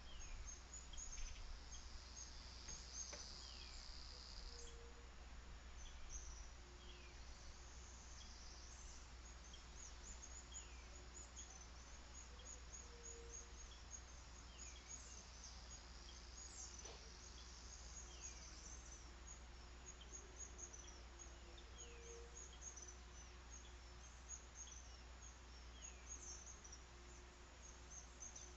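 Faint wild birds chirping and calling, with short falling whistled notes repeated every few seconds over a constant scatter of high chirps and insect sounds. A steady high buzz is heard about two seconds in and lasts about two seconds, and a low steady hum runs underneath.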